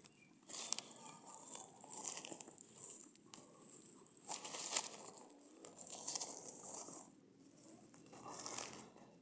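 Irregular bursts of crinkling, hiss-like noise, each lasting about half a second to a second, with short quieter gaps between them.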